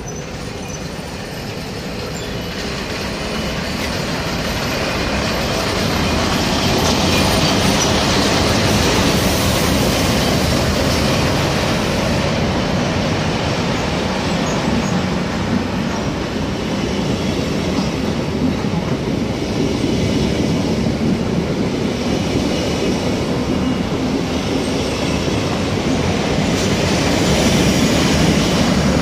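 Swiss electric passenger train of double-deck coaches running past close by: a steady rumble of wheels on rail that swells over the first several seconds and then holds, with some high-pitched wheel squeal.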